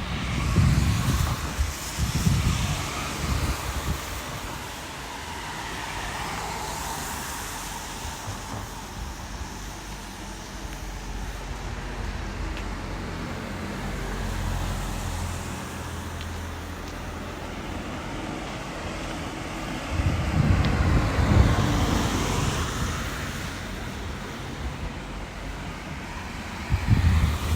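Road traffic on a wet street: cars passing with a swelling and fading tyre hiss, twice, over a steady background. Gusts of wind buffet the microphone near the start, in the later part and at the end.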